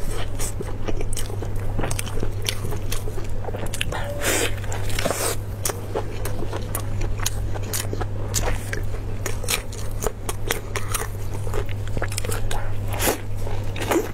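Close-miked ASMR eating: biting into and chewing braised beef on the bone, a dense run of short clicks and smacks, while plastic-gloved hands pull the meat apart.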